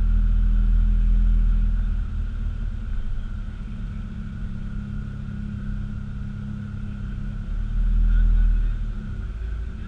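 Car engine and exhaust running at low speed, a steady low rumble. It is louder for the first two seconds, eases off, then swells again briefly near the end.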